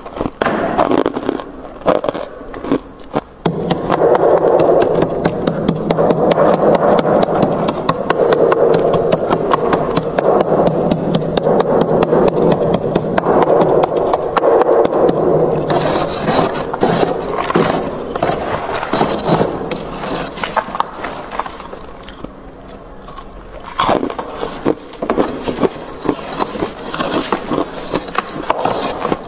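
Frost being scraped off the inside of a freezer. From a few seconds in there is one long continuous rasping scrape, and from about halfway it turns to shorter, crisper scrapes and crackles, with a brief lull near the end.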